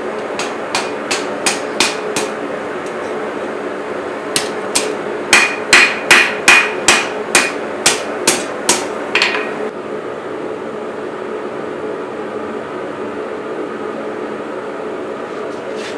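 Hand hammer striking hot steel on an anvil to forge a chef's knife blade. First comes a run of light blows about two a second, then after a short pause a run of heavier, ringing blows that stops about nine seconds in. A steady hum runs beneath and carries on after the hammering stops.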